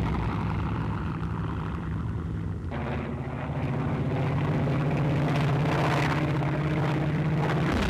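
Piston engines of a twin-engined Junkers Ju 88 bomber in flight, a steady drone. About two and a half seconds in, the sound changes abruptly to a steadier, even hum.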